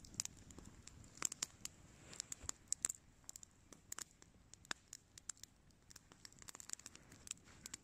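Small wood campfire crackling quietly, with irregular sharp pops and snaps of varying loudness.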